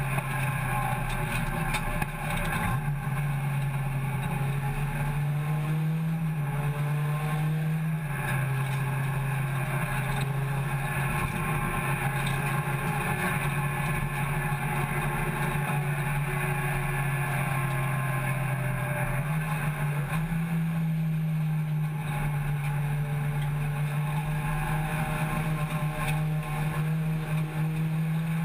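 Race hatchback's engine heard from inside the stripped, caged cabin, running at a steady drone while the car laps. Its pitch steps up a little about six seconds in, drops back two seconds later, and rises again around twenty seconds in, with road and wind noise underneath.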